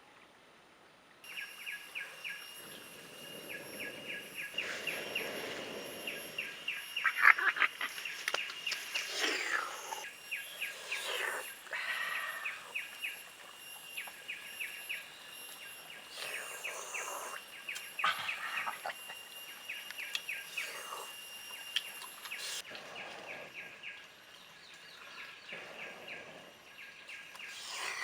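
Outdoor ambience: a fast, even run of high-pitched chirping pulses from small animals starts about a second in and keeps going. Irregular louder noises come and go over it, the loudest about seven seconds in.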